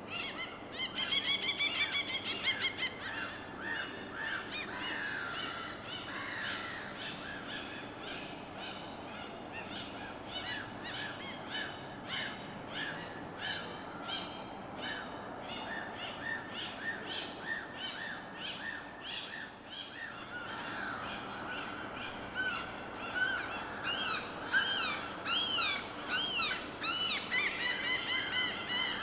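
Many birds calling and chirping at once in a dense, continuous chorus, over a steady wash of water. A loud burst of rapid calls comes about a second in, and louder sweeping calls swell up in the last few seconds.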